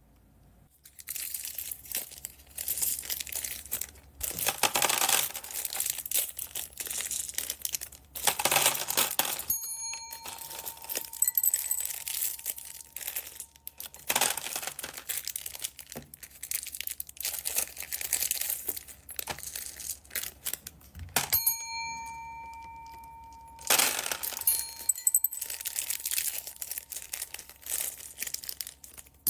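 Plastic bead bags crinkling and rustling as they are handled, in repeated bursts. A clear ringing chime sounds briefly, then again for about two seconds past the middle.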